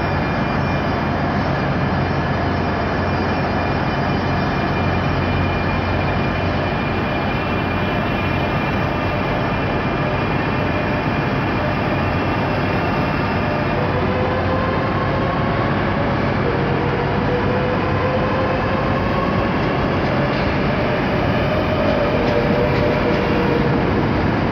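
Two coupled Class 365 electric multiple units pulling away: a steady rumble of wheels and carriages rolling past, with an electric traction whine that climbs slowly in pitch from about halfway as the train gathers speed.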